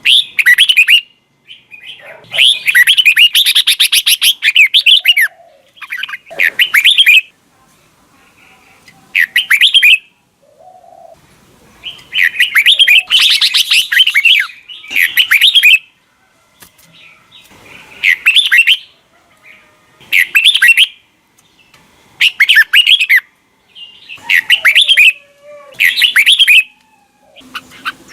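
Red-whiskered bulbul song: a string of short, quick phrases, each a second or two long, with brief pauses between them. Two longer, denser runs come about two seconds in and about twelve seconds in.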